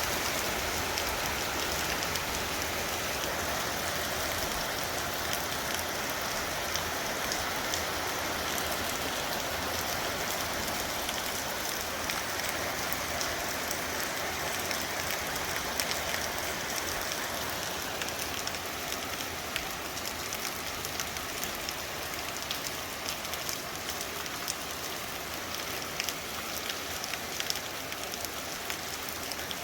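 Very heavy rain pouring down steadily: a dense hiss full of fine drop ticks. It eases slightly a little past halfway through.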